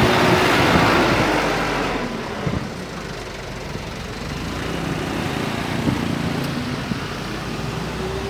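Rushing noise of a passing train and its wind on the microphone for about two seconds, then dropping to a steadier rumble of road vehicle engines idling at the level crossing.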